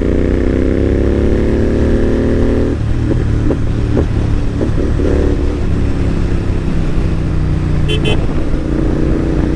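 Royal Enfield GT650's parallel-twin engine with an aftermarket AEW exhaust pulling hard, its note rising in pitch for over two seconds. The note drops suddenly as the throttle closes, and a run of sharp pops follows from the exhaust. It then settles into a steady lower drone.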